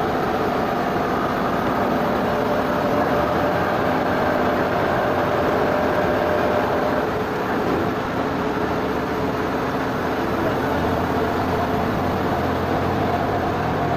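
Sawmill machinery running steadily, a continuous mechanical noise with a faint whine.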